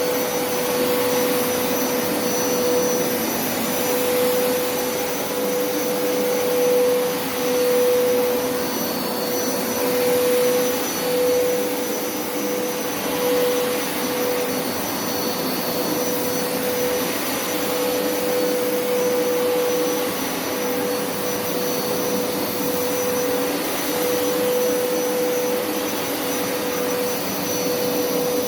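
Hoover upright carpet washer (water extractor) running, a steady motor hum with one strong, constant tone; the level swells and dips a few times partway through.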